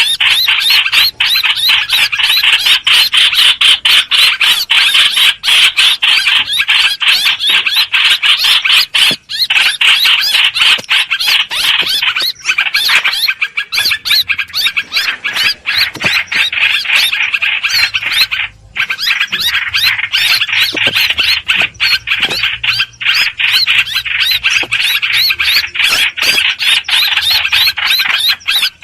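Hoành hoạch bird calling in a loud, fast string of repeated high, squealing notes, broken only by brief pauses; it is a lure call of the kind played to draw the bird in for trapping.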